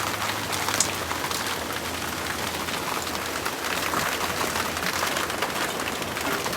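Heavy thunderstorm rain pattering on surfaces, a dense hiss with many sharp ticks of drops striking. It sounds like it could hold hail, but it is judged to be rain only.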